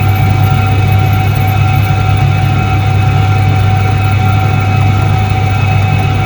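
Soviet Iset-3 washing machine from 1978 running, its electric motor giving a loud, steady, unchanging hum with a deep drone and a few steady higher tones.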